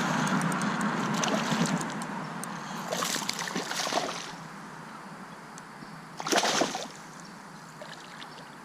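Water sloshing against a fishing kayak, with two short splashes, the first about three seconds in and the second about six seconds in.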